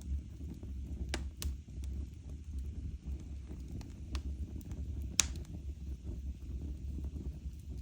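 Wood fire burning in a fireplace: a steady low rumble with scattered sharp crackles and pops, the loudest pop a little after five seconds in.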